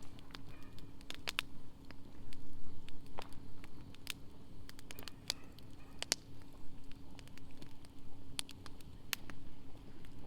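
Wood campfire burning in a fire stand, crackling with irregular sharp pops and snaps.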